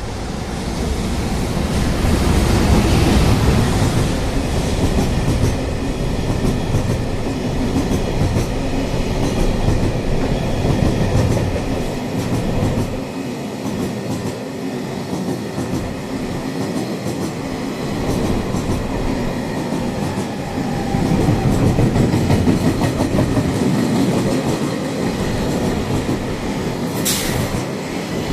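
An EF210 electric freight locomotive and its train of container wagons rolling past, wheels clicking over rail joints, with a brief high-pitched squeal near the end.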